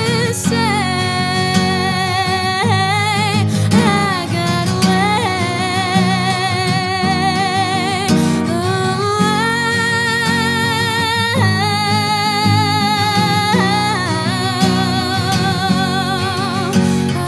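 A woman singing with a strong vibrato on long held notes, accompanied by guitar chords.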